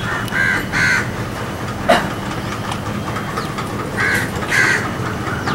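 A bird calling from outside: two pairs of short calls, one pair near the start and another about four seconds in. A single sharp click sounds just under two seconds in, over a steady low hum.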